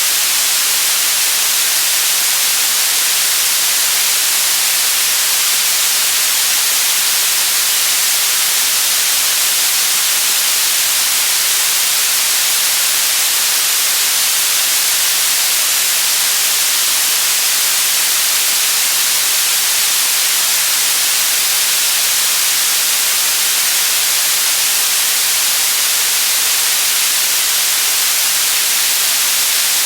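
Loud white noise: an even, unchanging hiss, strongest in the high end and thin in the bass.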